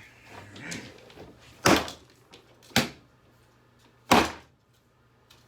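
Three sharp knocks, a little over a second apart, from a stubborn hairdryer plug being banged and forced at a socket that it won't go into.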